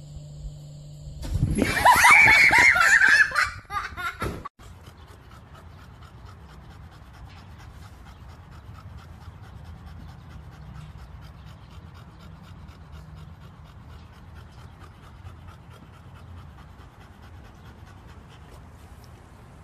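Loud laughter for about three seconds, then a bulldog panting steadily.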